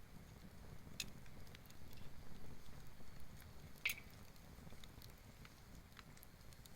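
Campfire of fallen forest wood crackling quietly, with scattered snaps and one sharper pop about four seconds in, over a faint low rumble.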